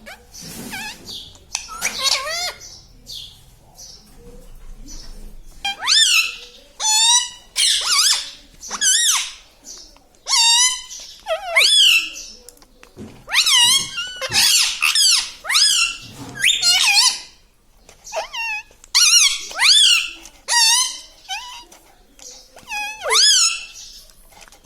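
Pet parrot calling: a long run of loud, high, shrill calls, about one a second, many sliding in pitch, with fainter calls in the first few seconds.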